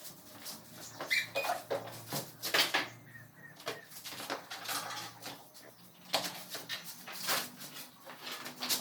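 Irregular light clicks and knocks, a few at a time, over a faint low hum.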